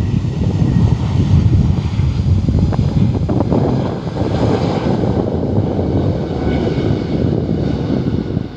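Jet airliner taking off, its engines running at take-off power, with wind buffeting the microphone.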